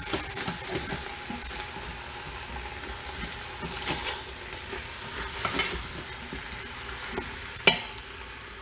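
Marinated beef chunks and lemongrass stalks sizzling in oil in an Instant Pot's stainless-steel inner pot on the sauté setting. A spatula stirs them, scraping and clicking against the pot now and then, with the sharpest knock near the end.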